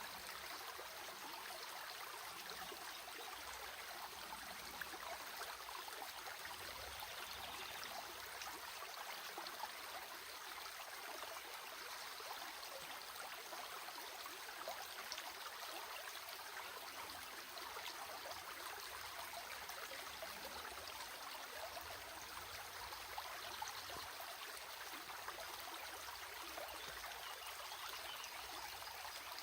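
Running water of a stream, a steady rush with many small splashes and trickles throughout.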